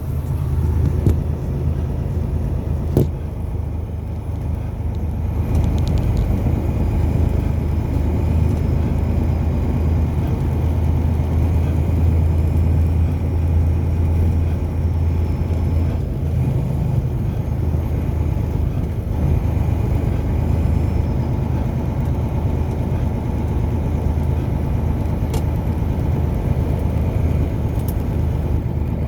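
A car driving steadily, a continuous low rumble of engine and road noise, with a few sharp clicks or knocks.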